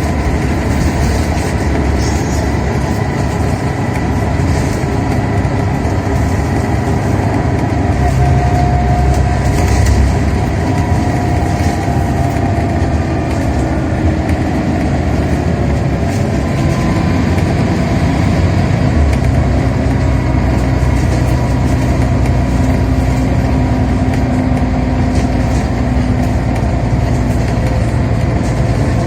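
Scania Omnicity bus engine and ZF automatic gearbox heard from on board while under way: steady engine and road noise with a gear whine through the middle, and a change in the engine note about two-thirds through.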